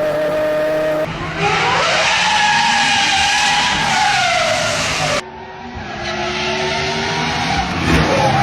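V12 engine exhaust revving: a held note, then a climb in revs about a second in that holds and falls away. An abrupt cut at about five seconds brings in another engine that builds revs again near the end.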